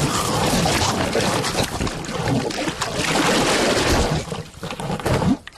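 Cartoon sound effects: a dense rushing noise with a few short gliding tones, dropping away near the end.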